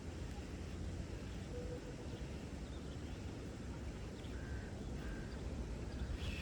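Outdoor ambience: a steady low rumble with a few faint short bird calls, two of them a little past the middle.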